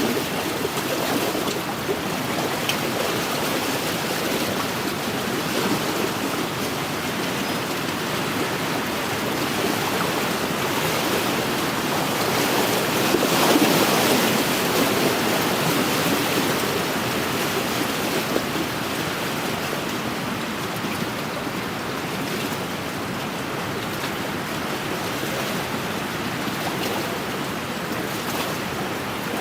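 Wind-driven waves washing steadily onto a lakeshore, with wind; the wash swells a little louder about halfway through.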